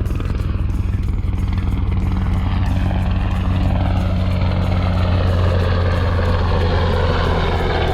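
Coast Guard helicopter passing low overhead: a steady low drone with rapid rotor pulsing, growing slightly louder toward the middle.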